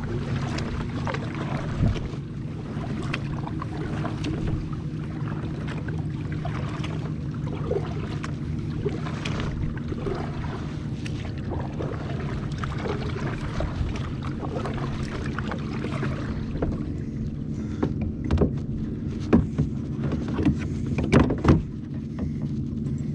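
Sounds aboard a fishing kayak on open water: a steady low hum under wind and water noise, with scattered knocks and clicks of gear against the hull. Several sharp knocks come close together near the end.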